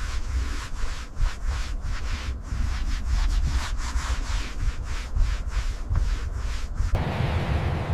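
Hand sanding: rhythmic back-and-forth abrasive strokes on a surface, about three a second, stopping abruptly about seven seconds in.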